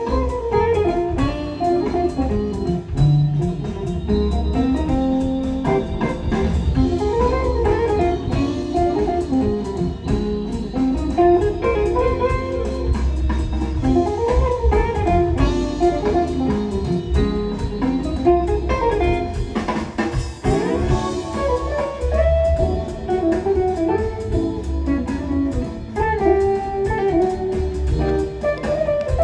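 Jazz with guitar, bass and drums played back through Dali Evidence 870 floor-standing hi-fi loudspeakers.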